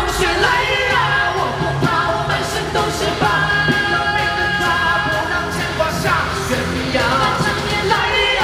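Live pop-rock song played loud on a concert sound system: a full band with a steady beat and sung vocals over it.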